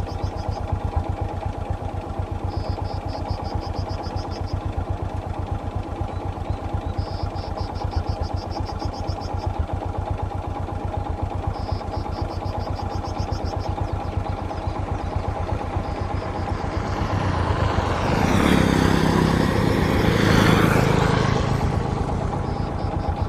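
A motor vehicle engine idling steadily. A high, rapid trill repeats every four to five seconds, and a louder vehicle passes close by about three quarters of the way through.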